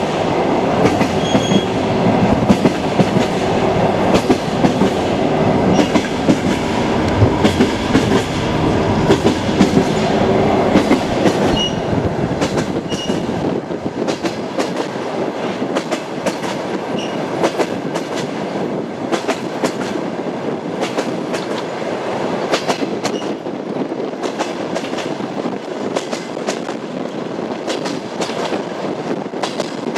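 Train wheels clattering over the rails, a continuous rapid clickety-clack over a steady rumble. About halfway through, the deepest part of the rumble falls away while the clatter goes on.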